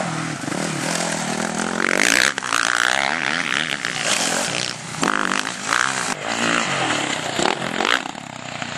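Motocross bike engines revving as they ride, the pitch rising and falling with repeated loud bursts of throttle.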